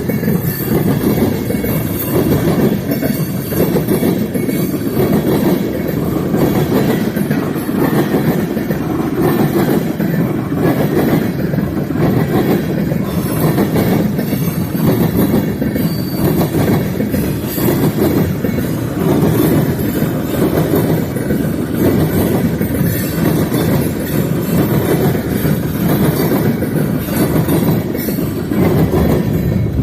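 Freight train cars rolling past, a steady rumble with the clatter of steel wheels over the rails.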